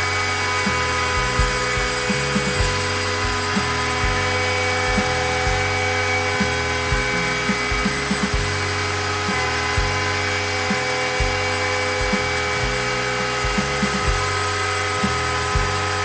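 Large DIY CNC router cutting wood: a steady spindle whine, with low tones that shift in steps every half second or so as the machine moves.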